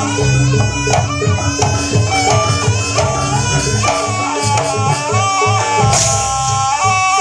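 Live jaranan accompaniment: a reedy wind instrument, typically the slompret, plays a wavering melody over a steady rhythm of hand drums.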